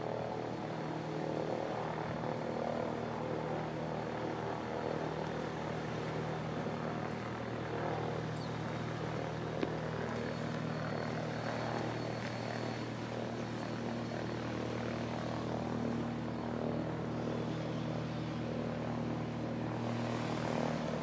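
Light aircraft's piston engine and propeller running at a steady speed.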